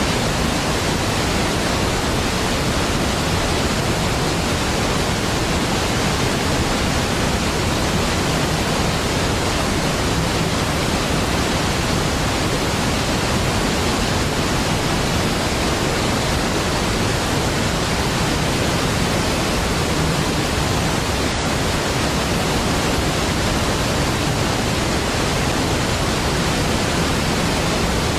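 Large waterfall: steady, unchanging rush of falling water, a deep even noise with no separate splashes or events.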